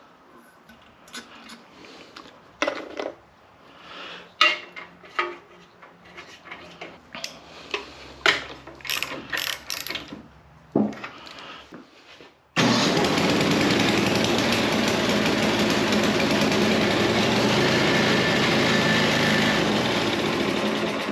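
Scattered clicks and knocks of hand tools and handling, then, about two-thirds of the way in, a snowblower's small gasoline engine starts suddenly and runs loud and steady. It is running on fuel poured straight into the cylinder, because fuel is not reaching the carburetor's float bowl.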